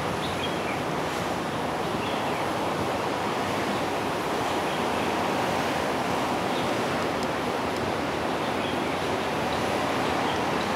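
Steady rushing noise of an approaching passenger train hauled by a DF11 diesel locomotive, growing slightly louder as it nears.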